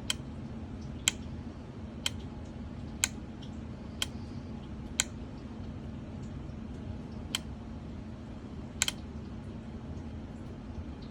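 Sharp single clicks, about one a second and then two more spaced further apart, from a pinball MPU bench-test setup stepping through its solenoid test. A steady low hum runs underneath.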